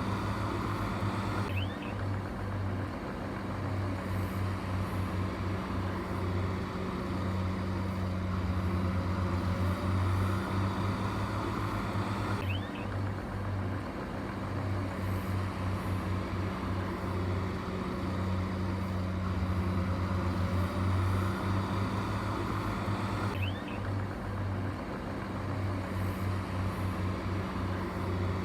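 Heavy diesel engine of earthmoving machinery running steadily with a low hum. The sound shifts abruptly three times, about eleven seconds apart, each time with a short high squeak.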